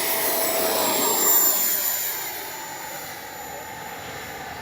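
Electric ducted-fan RC jet (FMS Futura V3, 80mm 12-blade fan) whining as it flies. The whine is loudest about a second and a half in, then fades as the jet moves away, climbing out just after takeoff.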